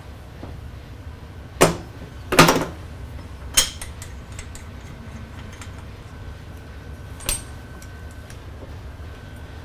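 A few sharp knocks of heavy parts being handled, one of them a longer double clatter, over a low steady hum.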